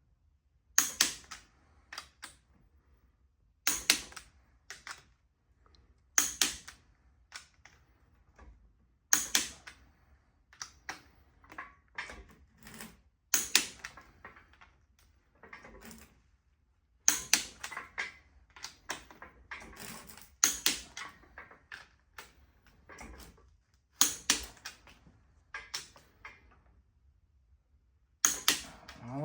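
Sharp metallic clicks and knocks from hand tools working on engine hardware, coming singly or in short clusters every second or few.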